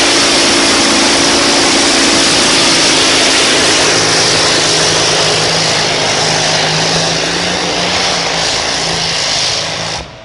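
Engine of a competition pulling vehicle running loud and steady with a strong high hiss, cutting off abruptly near the end.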